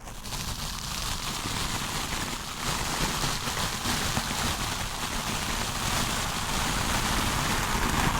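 Stiff-bristled wooden brush scrubbed hard and continuously across a microphone, a rough, dense scratching.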